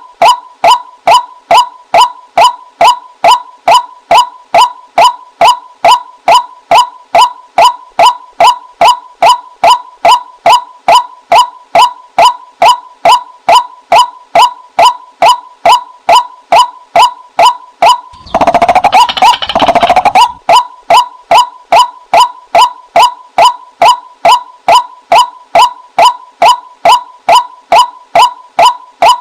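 Female white-breasted waterhen call played as a bird-trapping lure: a steady run of identical short 'kwak' notes, about two and a half a second. About eighteen seconds in, a two-second stretch of denser, jumbled calling breaks the rhythm before the notes resume.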